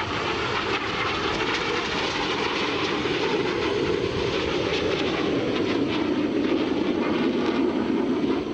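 Continuous jet noise from the Red Arrows' BAE Hawk T1 jets in flight, their single Adour turbofan engines producing a steady rushing sound that shifts slowly in pitch.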